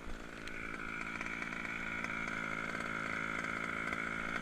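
HPI Baja's 29cc SZC reed-valve two-stroke engine running at a steady speed, one even buzzing note that firms up about half a second in.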